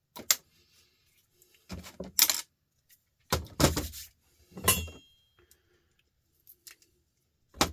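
Small metal scrap parts from a sander teardown, copper and brass pieces, clinking and knocking as they are handled and dropped: about five separate sharp knocks, one ringing briefly.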